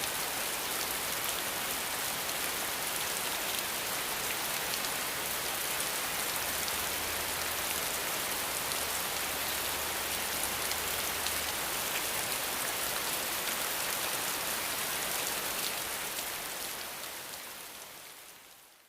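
Steady rain falling, a dense hiss of many drops, fading out over the last few seconds.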